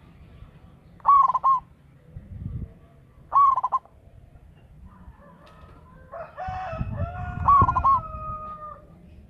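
Zebra dove (perkutut) cooing in short clipped notes, twice in the first half. About six seconds in a rooster crows in one long held call, and the dove coos again over it.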